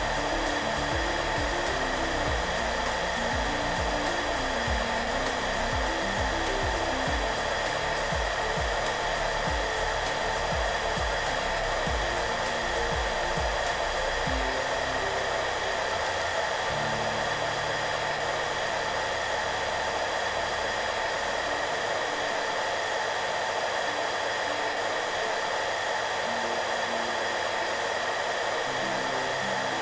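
Hair dryer running steadily, an even rushing noise with a few constant tones in it, mixed with soft background music. Low melodic notes move underneath, with a quick pulsing part in the first half that drops away about halfway through.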